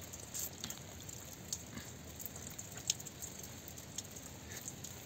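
Steady rainfall as a faint even hiss, with a few scattered sharp ticks.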